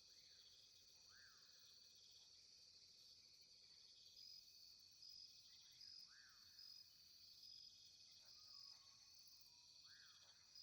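Very faint natural ambience: a steady high insect drone with an evenly pulsing tone in it, and three short arching chirps a few seconds apart.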